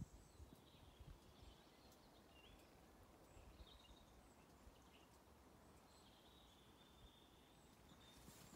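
Near silence with faint, scattered bird chirps and one longer held note a little past halfway.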